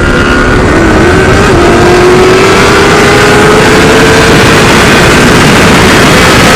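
Wind rushing over a helmet-mounted microphone at speed, with a motorcycle engine's whine climbing slowly in pitch as it accelerates.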